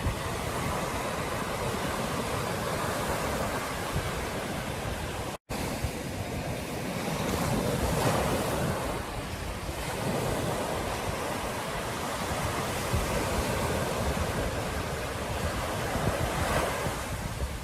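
Ocean surf breaking and washing on a beach in slow swells, with wind rumbling on the microphone. The sound drops out completely for a split second about five and a half seconds in.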